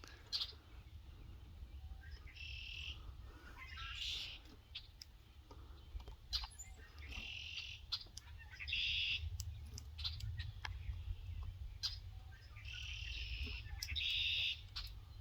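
A songbird singing short, high-pitched phrases that come in pairs about every five seconds, over a low steady rumble.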